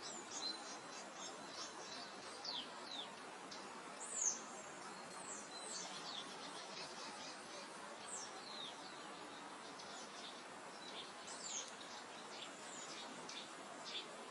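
Small birds calling in a meadow: a series of quick, high, falling whistled chirps, the loudest about four seconds in, over a steady soft hiss of wind.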